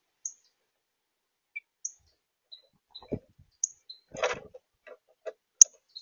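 Short, sharp bird chip notes every second or so, mixed with a lower repeated call note. A knock about three seconds in and a brief rustle about four seconds in come from a bird moving on the feeder dish.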